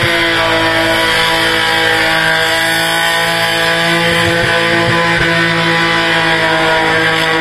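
A car's engine held at steady high revs during a burnout, its tyres spinning on the pavement; the pitch barely changes.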